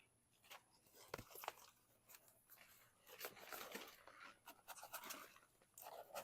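Faint crunching and rustling of potting soil and roots as a bird of paradise plant is worked loose from its pot by hand, with a few small clicks about a second in and denser crackling in the second half.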